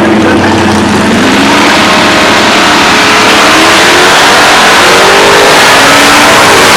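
Drag race car accelerating hard down the strip, its engine very loud, with the pitch rising through the run.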